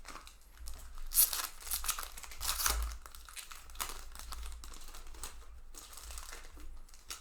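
Magic: The Gathering booster pack's foil wrapper being torn open and crinkled. The crinkly tearing is loudest in the first few seconds, then gives way to softer rustling of the wrapper and cards.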